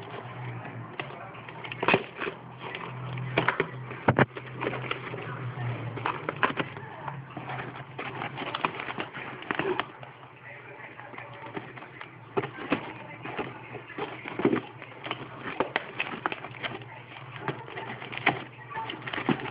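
Packaging being handled and unwrapped by hand: irregular crinkles, rustles and sharp clicks over a steady low hum.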